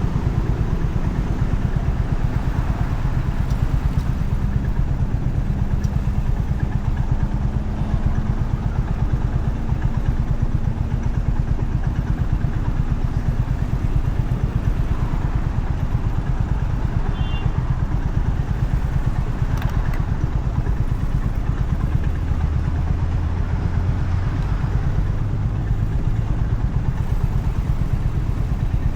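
Honda CB350RS's air-cooled single-cylinder engine running steadily while the motorcycle is ridden.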